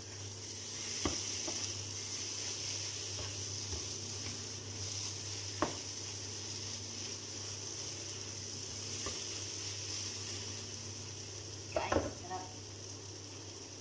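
Eggplant and sardine mixture sizzling in a nonstick frying pan as a spatula stirs and scrapes it, with a few sharp knocks of the spatula on the pan. Near the end a short clatter as the spatula is set down on a plate.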